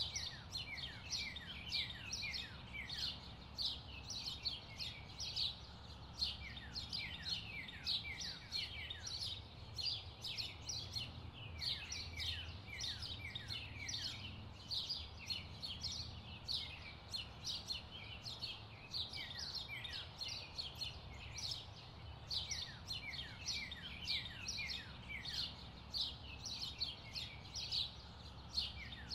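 Birds singing: quick runs of short, falling high chirps, repeating phrase after phrase over a faint low hum.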